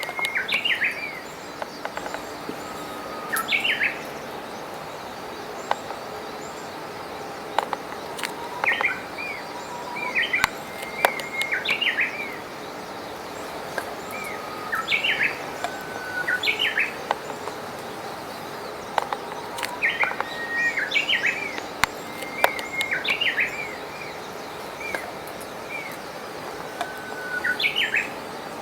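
A songbird singing the same phrase every few seconds: a held whistle that jumps to a quick run of higher notes, over a steady rush of stream water.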